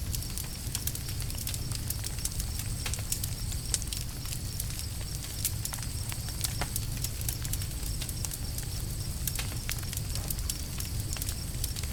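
Swedish torch log fire crackling, with irregular sharp pops and snaps over a steady low rumble.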